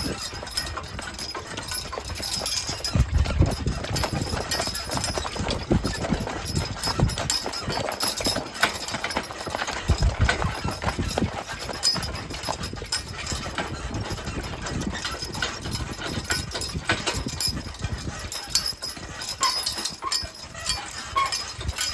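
A team of two draft horses walking in harness: a steady, irregular clip-clop of heavy hooves mixed with the rattle and jingle of harness and hitch.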